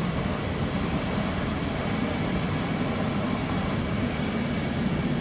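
Regional train pulling away on a far track: a steady low rumble, with a couple of faint sharp clicks.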